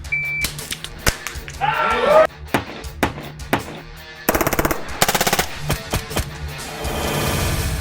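Edited music track with scattered sharp cracks and two short, very rapid strings of shots about halfway through, like bursts of automatic gunfire, then a rising rapid-pulse swell near the end.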